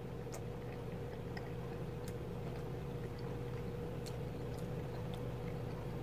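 A person chewing a mouthful of soft cooked vegetables and potato, with faint small clicks scattered through, over a steady low hum.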